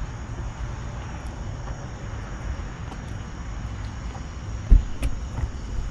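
Low, steady rumble of a car engine running nearby, with a single heavy thump about three-quarters of the way through.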